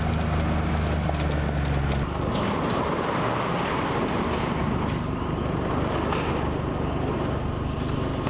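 Utility vehicle engine running with a steady low hum, which gives way about two seconds in to a rougher rushing noise of the vehicle on the move.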